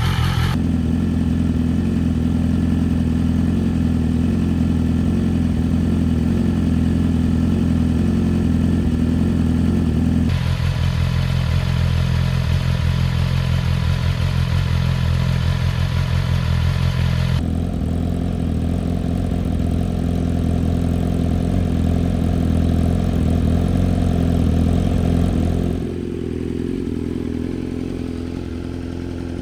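BMW S1000RR inline-four engine idling steadily through an aftermarket exhaust. Its tone shifts abruptly several times, and it is a little quieter in the last few seconds.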